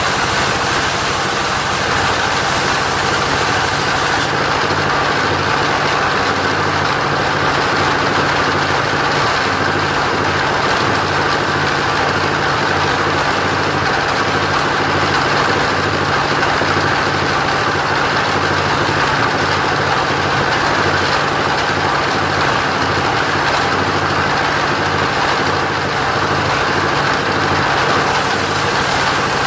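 Engine of a portable sawmill running steadily at a constant speed while it drives the saw through coconut wood.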